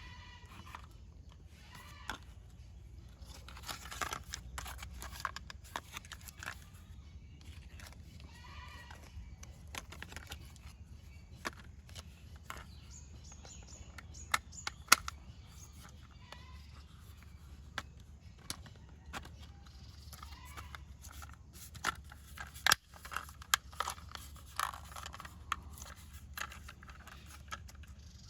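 Plastic toy parts and packaging being handled: scattered clicks and light rustling over a low steady hum, with the clicks coming thicker near the end.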